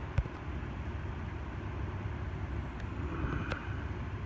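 Steady low rumble of moving air on the microphone, with a sharp click just after the start and a fainter click about three and a half seconds in.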